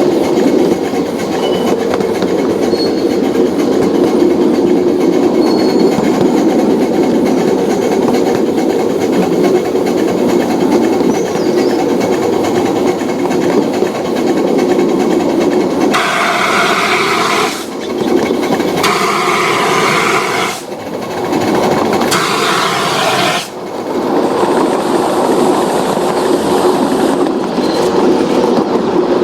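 A train running along the track, with steady rail clatter and some wheel squeal. The sound changes for several seconds past the middle, with three brief drops in level.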